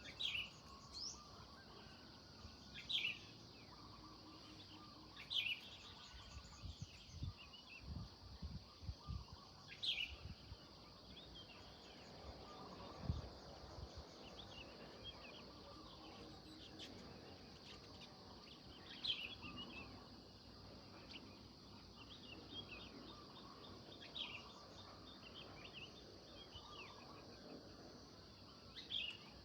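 Birds chirping in short, separate calls every couple of seconds over a faint, steady high hiss.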